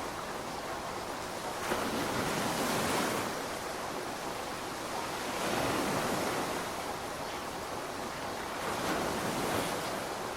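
Steady rainfall, a continuous hiss that swells and eases every few seconds.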